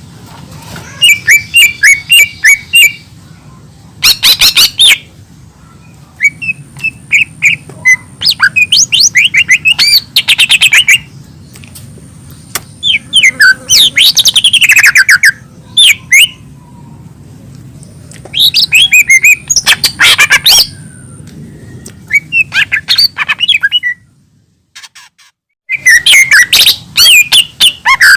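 Cucak ijo mini, a small leafbird, singing loud phrases of rapid chirps and whistled, sliding notes separated by short pauses, with a silent break of about a second and a half near the end.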